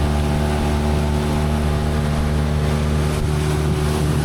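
A boat's engine running at a steady speed, with an even, unchanging hum, under the rush of wind and water.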